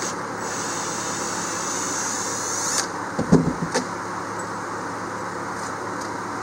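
Cordless drill running for about two seconds, its whine rising in pitch as it backs a screw out of the boat floor, followed by a few sharp knocks, all over a steady background hum.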